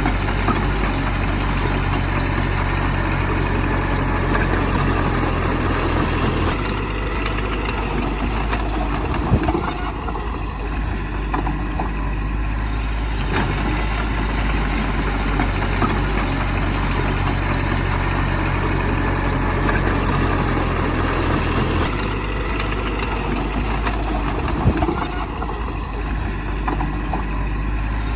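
Heavy diesel engine of earthmoving machinery running steadily. Its low engine note changes as the load changes, fading about six seconds in and coming back strongly near the end. There are two sharp knocks, one about nine seconds in and one about twenty-five seconds in.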